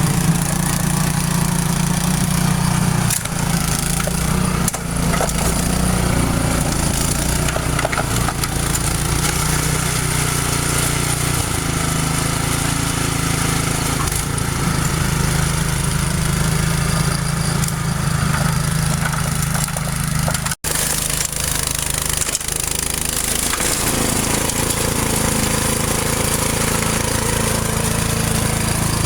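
Small gasoline engine of a Craftsman leaf blower running steadily, its pitch shifting a couple of times as the throttle changes.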